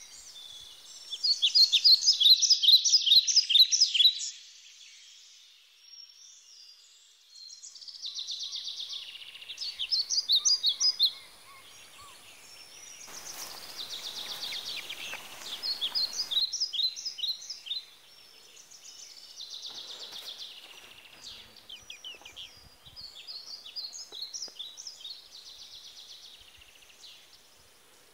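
Birds chirping in repeated bouts of rapid, high trilled notes, each bout lasting a few seconds; the loudest bout comes about a second in. Around the middle, a few seconds of hiss lie under the calls.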